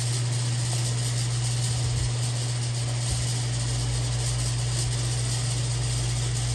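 A steady, unbroken mechanical hum with an even hiss over it, like shop machinery running.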